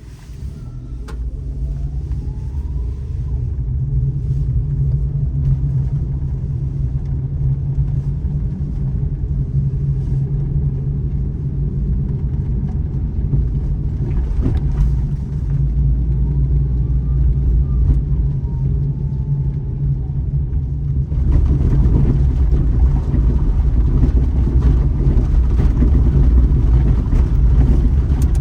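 Daihatsu Terios Kid's 660 cc three-cylinder engine running with road noise as it is driven along a forest road: a steady low rumble that builds over the first few seconds and turns louder and rougher about three-quarters of the way through.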